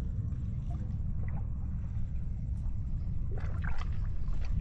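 A steady low rumble, with faint voices about three seconds in.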